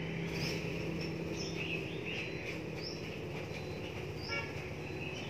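Faint background of small birds chirping: short high chirps about once a second, softer twittering beneath them, and one brief rattling trill near the end. A low steady hum fades out within the first second.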